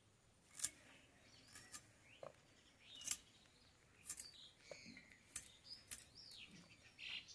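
Faint bird chirps with several short, sharp clicks spread through it.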